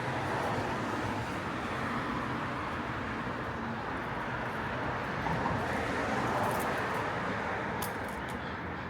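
Road traffic noise: a steady rush of vehicles passing, with a few faint sharp clicks about two-thirds of the way in.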